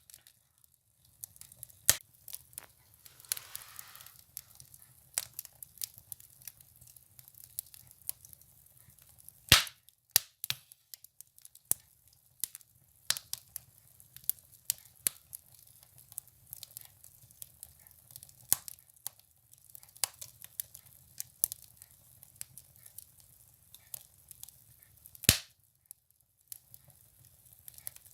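Firewood burning in a wood stove, crackling with irregular sharp pops over a low steady rumble. A few pops are much louder, and there is a short hiss about three seconds in.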